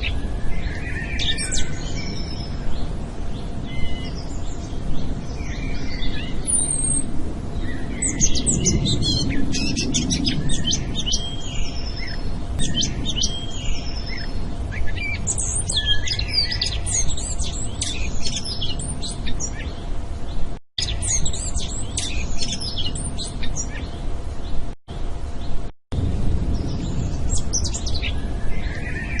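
Many small birds chirping and trilling together in dense, overlapping calls, over a low rumbling background. Three brief dropouts to silence break it up in the later part.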